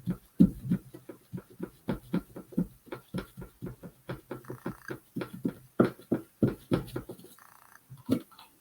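Sea sponge dabbing paint onto a wooden board: a run of quick, irregular soft taps, about four a second, that thin out near the end.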